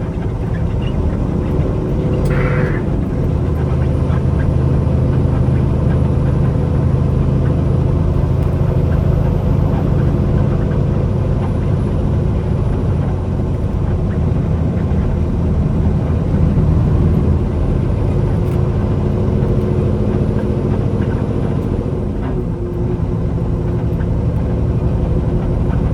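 Semi truck's diesel engine droning steadily with road noise, heard from inside the cab while driving at a constant speed.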